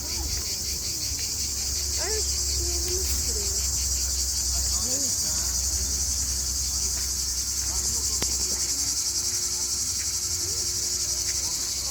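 A steady, high-pitched chorus of chirring insects with a fast, even pulse, over a low rumble.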